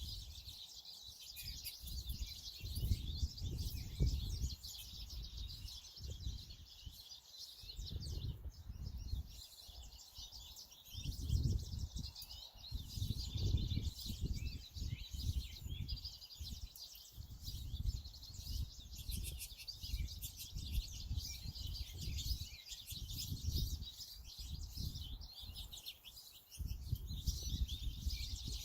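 Several wild birds chirping and singing, many short calls overlapping throughout. Under them runs a low rumble that swells and fades every few seconds.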